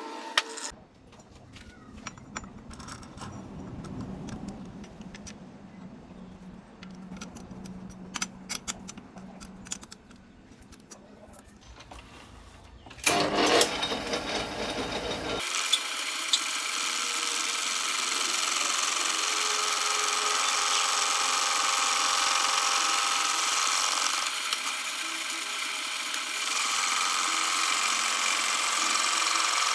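Machine-shop work: light clicking and tapping, then about halfway through a power tool starts up and runs steadily with a high-pitched whine.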